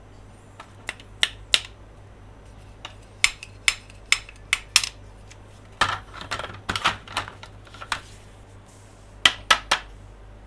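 Hands tapping and handling hard plastic toy monster trucks and playset parts: sharp plastic clicks and taps in irregular groups, with a denser run of scratchy clicks about six to eight seconds in and three quick taps near the end.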